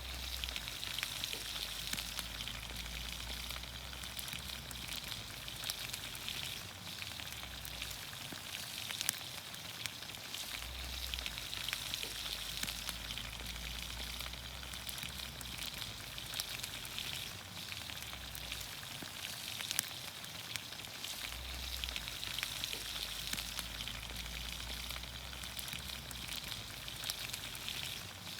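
Vegetables sizzling in olive oil in a pan over a campfire: a steady hiss with scattered crackles, and a low rumble that comes and goes.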